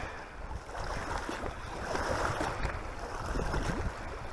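Strong wind buffeting the microphone, a steady low rumble with a rushing hiss over it.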